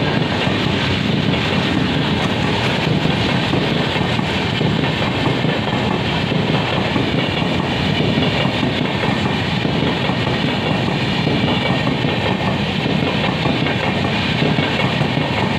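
Express train's passenger coaches rolling through at speed: a steady, loud rumble of wheels on the rails that does not let up.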